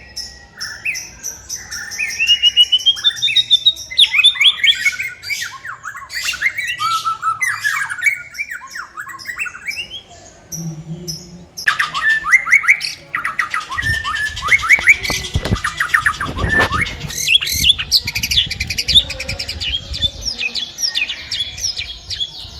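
White-rumped shama singing a loud, varied song of whistled phrases and fast-repeated notes. The song pauses briefly about halfway through, a few sharp clicks come soon after, and rapid trills run near the end.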